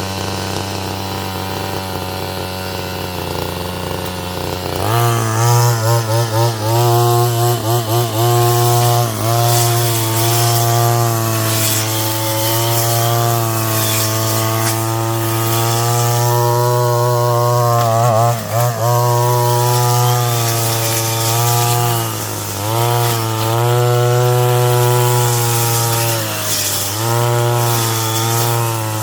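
Brush cutter engine running at a low, steady speed, then throttled up about five seconds in and held at high revs as it cuts weeds. Its pitch dips briefly and recovers several times.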